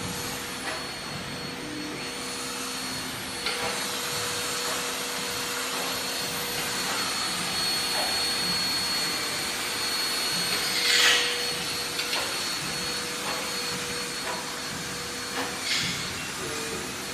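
Hole-drilling machine running: a steady whirring noise with a steady hum and a high whine through it, and a few short louder bursts, the loudest about eleven seconds in.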